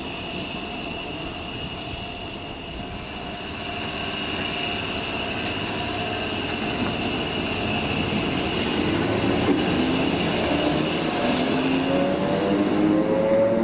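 Train pulling away from the platform: a steady high whine, then in the last few seconds its motors whine up in pitch and grow louder as it accelerates.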